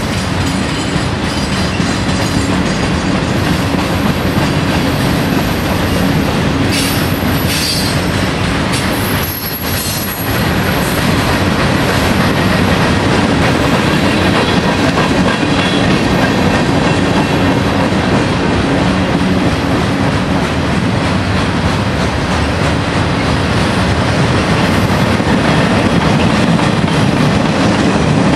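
Freight train cars rolling past on the rails in a steady, loud rumble of wheels and couplers. High-pitched wheel squeals rise briefly over it about seven to ten seconds in.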